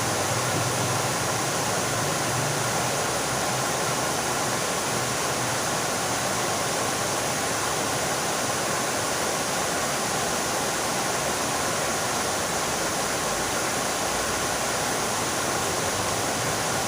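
Fountain water splashing and falling steadily.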